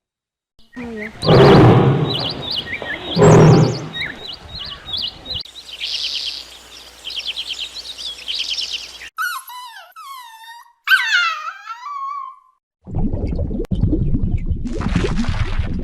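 A series of different animal calls cut one after another: two loud rough calls, then a fast chirping trill, then several falling whistled calls, then a low rumbling noise near the end.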